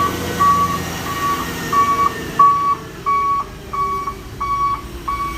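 Vehicle reversing alarm beeping steadily, a single high tone repeating about one and a half times a second, over a vehicle engine running low that drops away about halfway through.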